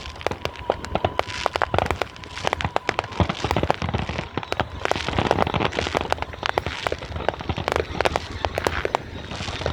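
Fireworks going off in quick succession: a dense, irregular run of sharp cracks and pops.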